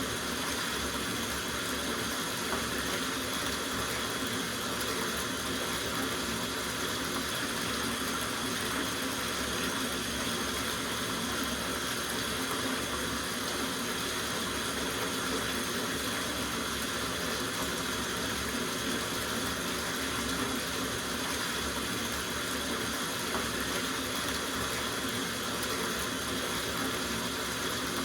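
Water running from a tap into a soaking bathtub, a steady, unbroken rush.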